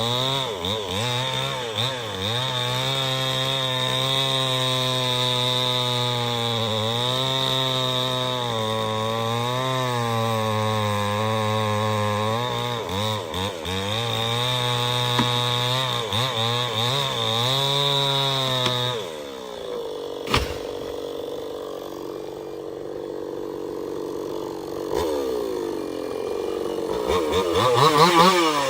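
Chainsaw engine running near full throttle while cutting wood, its pitch sagging and recovering again and again as the chain bogs under load. About two-thirds of the way through the throttle drops off and it runs lower and quieter, with one sharp knock just after. Near the end it revs up and down.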